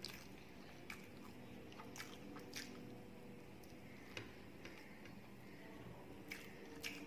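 Close-up eating sounds from a person eating rice by hand: chewing with soft, wet mouth clicks and smacks at irregular intervals, roughly one every second, over a faint steady hum.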